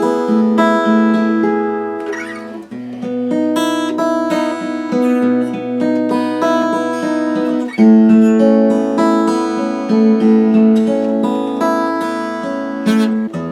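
1974 Martin D-18 acoustic guitar, a mahogany-bodied dreadnought, being played with a mix of strummed chords and quick repeated picked notes; a fresh chord rings out about eight seconds in, with all kinds of overtones.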